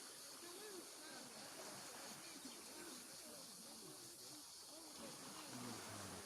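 Faint, distant voices murmuring over a steady low hiss.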